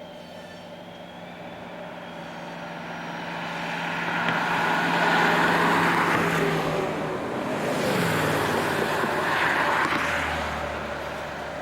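Iowa Traction Railway steeple-cab electric freight train passing close by: the noise swells, peaks twice and fades, while a steady low hum drops in pitch about eight seconds in.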